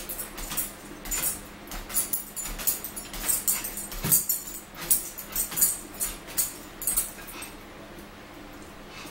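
Eating sounds: close-up wet chewing and lip-smacking on fries and a sandwich, in quick, fairly regular smacks about two or three a second.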